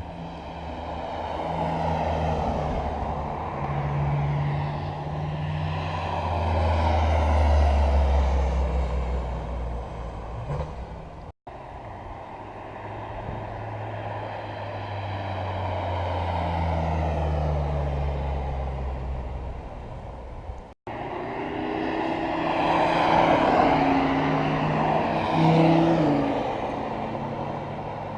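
Car engines running and passing, swelling and fading with shifting pitch, in three stretches that cut off abruptly twice.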